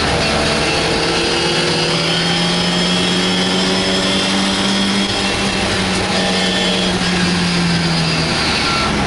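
MGA sports racing car's four-cylinder engine heard from the cockpit, running hard at high revs. Its pitch dips about a second in, then it holds a steady high note and eases slightly near the end, over wind and road noise in the open car.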